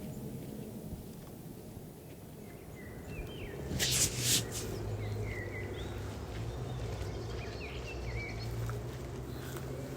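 Outdoor ambience: small birds chirping now and then over a steady low hum that comes in about three and a half seconds in, with a short loud burst of rustling noise about four seconds in.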